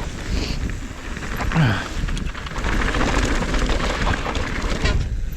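Mountain bike descending a trail at speed: tyres rumbling and rattling over dirt and rocks, with wind rushing over the helmet-mounted action camera's microphone.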